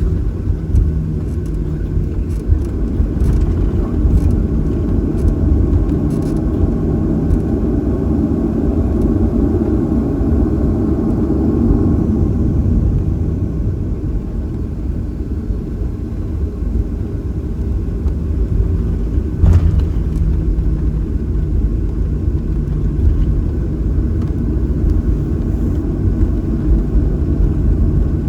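Cabin noise inside a Boeing 737-800: a steady low rumble and hum from its CFM56-7B engines running while the jet sits or taxis. There is a single short click about twenty seconds in.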